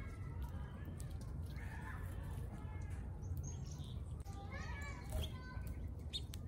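Birds chirping and calling in short scattered bursts, a few times, over a steady low background rumble.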